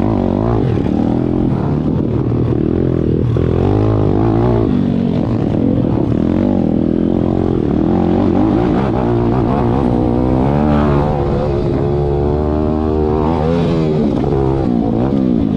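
Pit bike engine revving up and down again and again, its pitch rising and falling as the rider works the throttle.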